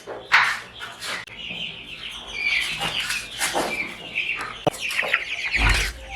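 A flock of three-day-old domestic chicks peeping continuously in rapid high chirps, with a sharp knock about half a second in and a dull thump near the end as they are handled.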